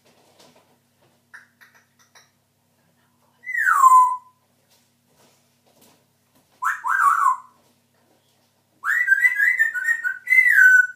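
Pet parrot whistling three times: a single falling whistle, then a short warbling call, then a longer warbled whistle near the end.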